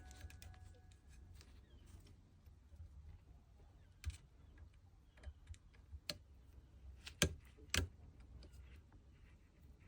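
Faint scattered clicks and taps over a low steady hum, with a few sharper clicks in the second half; piano music fades out at the very start.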